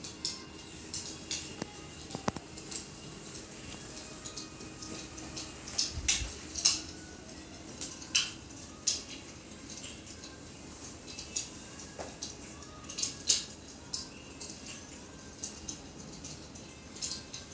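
Fire crackling in a fireplace: irregular sharp pops and snaps over a soft low hiss, from a projection fireplace's sound.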